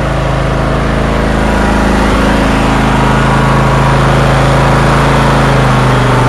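20 hp Kohler engine of an MTD Troy-Bilt riding mower idling steadily shortly after a cold start, its pitch stepping up slightly about a second and a half in.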